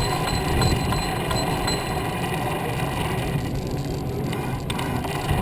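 Steady low noise of riding a bicycle, wind and rolling tyres, with one sharp click a little before the end.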